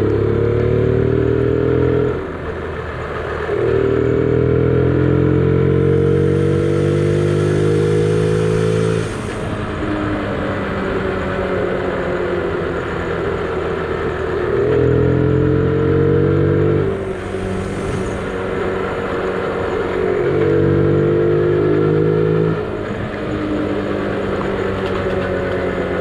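Honda Gorilla's small single-cylinder four-stroke engine under way. Its pitch climbs slowly through four louder pulls, with the engine dropping back to a quieter note between them, over steady wind and road noise.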